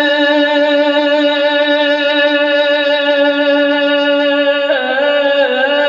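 A male voice holding one long sung note at the end of a line of a devotional kalam. About three-quarters of the way through, it drops in pitch into a wavering ornament.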